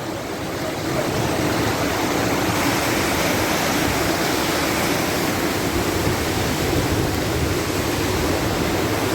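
Waterfall: falling water rushing steadily and loudly, swelling slightly in the first second.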